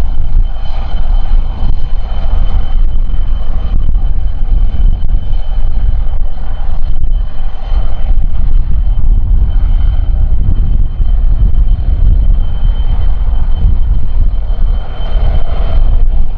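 Jet airliner engines running with a steady high whine, under a loud, gusting rumble of strong wind buffeting the microphone.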